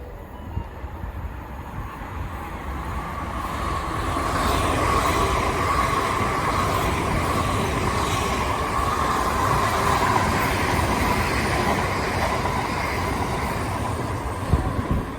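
Electric passenger train running along the tracks past the platform, getting louder over the first few seconds and then holding steady, with a whining tone throughout.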